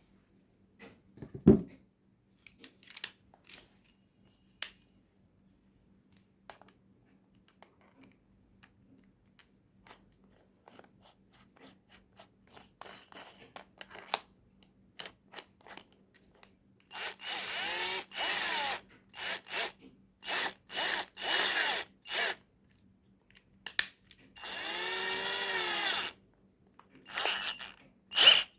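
Total TDLI12415 cordless drill handled with scattered clicks and knocks, then triggered in a series of short runs past the middle, the motor spinning up and winding down each time, the longest run about a second and a half.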